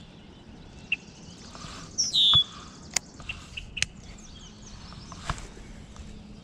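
Outdoor birdsong: one loud songbird call about two seconds in, falling into a short buzzy trill, with scattered short chirps around it. A few sharp clicks come in the middle.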